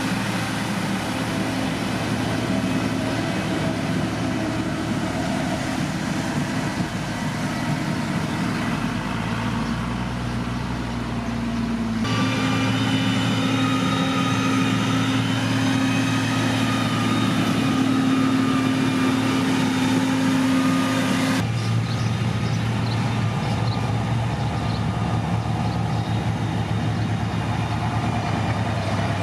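Heavy diesel engines of road-construction machines running steadily. The sound changes abruptly twice, and in the middle stretch a set of high steady whines sits over the engine.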